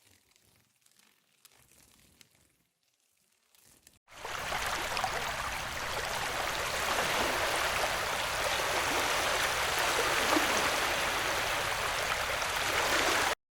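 Faint crackling, then about four seconds in a steady rushing noise starts abruptly and runs evenly until it cuts off suddenly near the end.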